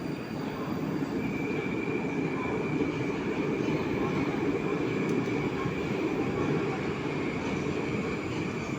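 Moscow-2020 (81-775/776/777) metro train running, a steady rumble of wheels and car with a high steady whine joining about a second in.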